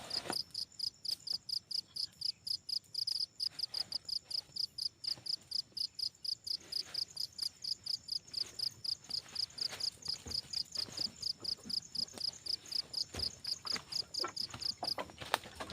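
An insect chirping in a fast, even rhythm of high-pitched pulses, about five or six a second, stopping shortly before the end.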